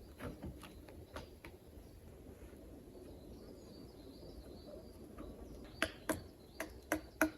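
A run of sharp taps, about three a second, starting near the end, after a few scattered faint clicks; a faint bird chirp sounds in the middle.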